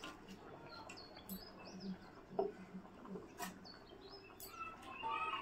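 Small birds chirping in short, scattered calls, with a few sharp knocks, the loudest about two and a half seconds in.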